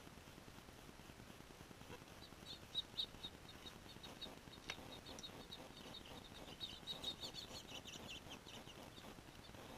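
Small birds chirping faintly in quick runs of short high notes, busiest in the second half, with one sharp click about halfway through.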